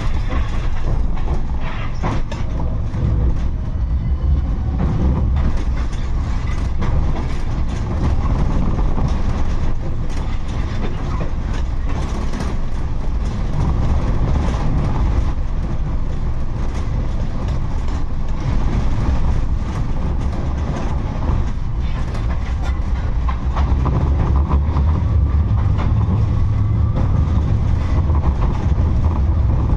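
Type 71-628-02 tram rolling steadily along the track between stops, heard from on board: a constant low rumble of wheels on rail, with frequent short clicks and knocks from the running gear. The rumble grows louder over the last few seconds.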